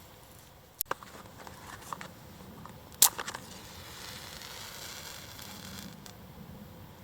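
A few sharp clicks and knocks, the loudest about three seconds in, followed by a soft hiss lasting a couple of seconds.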